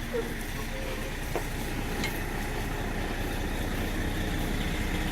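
Diesel engine of an MCI D4500 coach running steadily at low speed, a low rumble that grows slowly louder.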